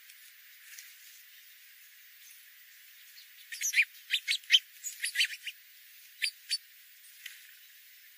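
A small bird calling: a quick run of short, high chirps starting about three and a half seconds in, then two more single chirps a second later.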